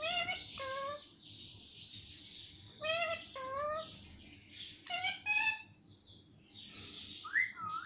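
Pet parrot calling in pairs of short two-note pitched calls, about three pairs and a shorter rising one near the end, with raspy hissing chatter between them.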